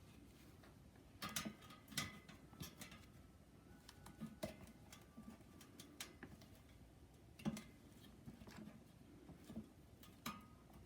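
Faint, scattered clicks and light metallic clinks, about a dozen over several seconds, some ringing briefly, as small metal parts are handled and set against each other.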